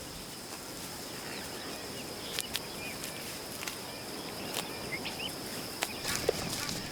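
Savanna field ambience: a steady high-pitched insect buzz over a soft hiss, with short bird chirps and a few light clicks scattered through it.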